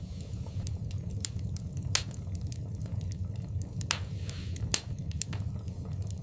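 Wood fire burning in a fireplace: a steady low rumble of flames with irregular sharp crackles and pops, the loudest about two seconds in and near the end, and a brief hiss a little after four seconds.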